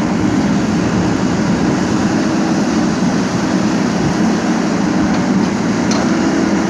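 Heavy diesel machinery, a backhoe loader or tipper truck engine, running steadily with a constant low hum.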